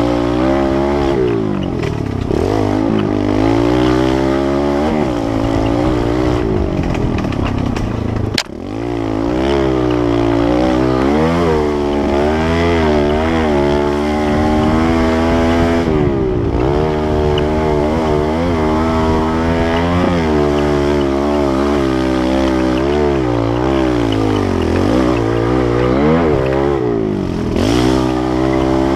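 Kawasaki KLX110L pit bike's small single-cylinder four-stroke engine being ridden, revving up and falling back over and over as the throttle is worked. A single sharp click sounds about eight seconds in.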